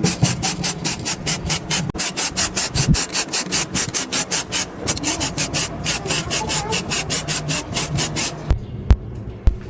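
Quick back-and-forth rasping strokes of hand abrasive work, about five a second, with a short pause a little before the middle. The strokes stop near the end, followed by a couple of light knocks.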